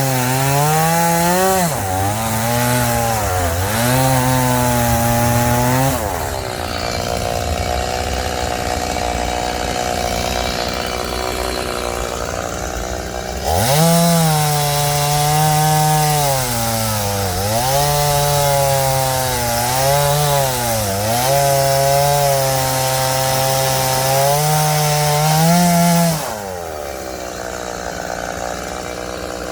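Chainsaw cutting firewood: the engine runs at high revs, its pitch dipping again and again as the chain bogs into the wood and recovering between cuts. Twice it eases back to a lower, steadier note for a few seconds.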